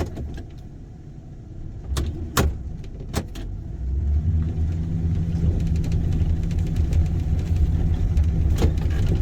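Car interior on a bumpy road: a low engine and road rumble with sharp rattles and knocks from the cabin, several between two and three seconds in and another near the end. About four seconds in the engine note rises and holds steady and louder, as if revved while in neutral.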